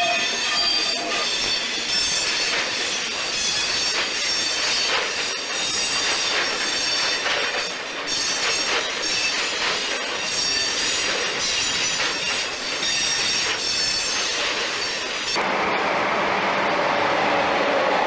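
Freight wagons rolling past at low speed, their wheels squealing at several high pitches amid clicks and knocks over the rails. About fifteen seconds in this cuts to the lower, steadier sound of an electric-hauled passenger train pulling in, with a slowly falling whine.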